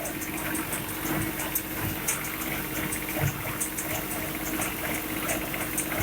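Deutz-Fahr Agromaxx 55 tractor engine running steadily, with a fast, uneven clicking clatter over it.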